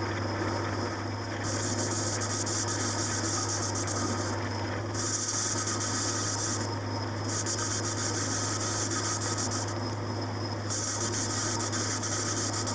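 A machine tool cutting metal: a steady motor hum under repeated stretches of hissing cutting noise, each a couple of seconds long, starting and stopping four times.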